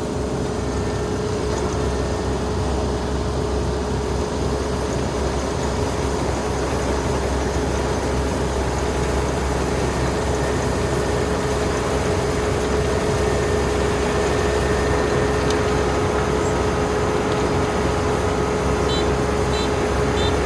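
Mitsubishi Dynamax 470 combine harvester running steadily, its engine and machinery giving a constant drone with a steady whine. Faint quick high chirps come in near the end.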